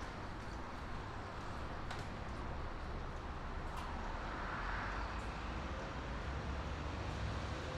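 Steady rumble and hiss of highway traffic, with a swell of passing-vehicle noise that rises and fades about halfway through.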